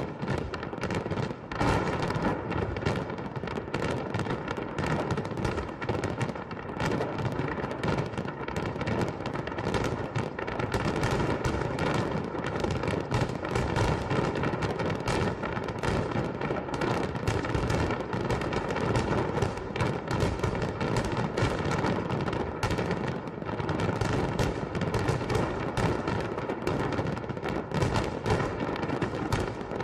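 A fireworks salute: a dense, unbroken crackle of bursting shells, many cracks a second, with deeper booms underneath.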